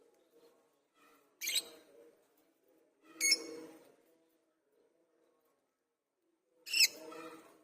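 Lovebird giving three short, shrill calls, about a second and a half in, a few seconds later, and near the end, over a faint low hum.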